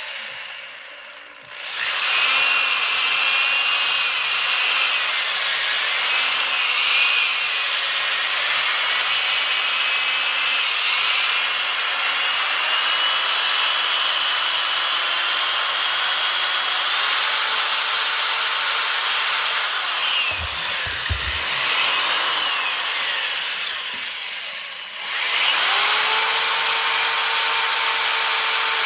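Power tool grinding or cutting steel plate: a loud continuous grinding noise with high whining tones that waver as the load changes. A couple of low thumps come around two-thirds of the way in; then the tool slows, and about 25 seconds in it starts again and runs at a steady pitch.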